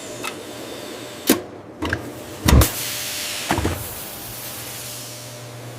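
Automated jar-packaging machinery running: a motor whirs over a steady low hum, with four or five sharp clunks in the first few seconds, the loudest about two and a half seconds in.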